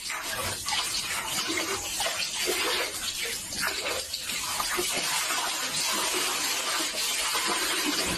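Water running and splashing, a dense steady rush broken by irregular splashes.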